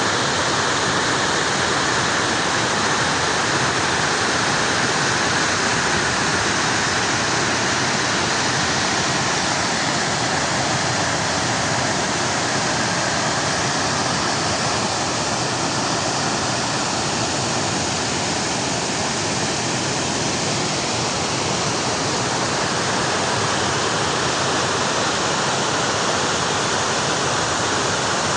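Steady rush of flowing water, an even unbroken hiss with no change in level.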